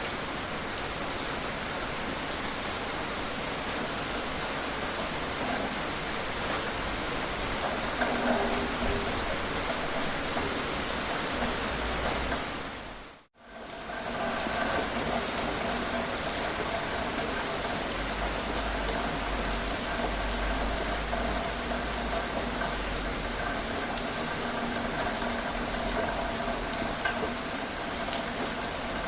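Steady rain falling, with the small ticks of individual drops. It fades out to silence for a moment about halfway through, then comes back at the same level.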